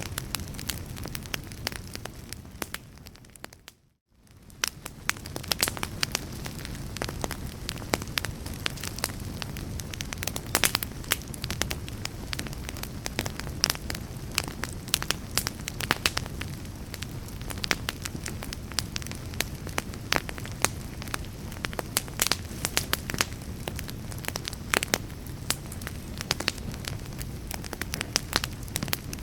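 Wood fire crackling in a fireplace: a steady low rumble under dense, irregular pops and snaps. About four seconds in it fades to near silence and fades back up, with the crackling resuming.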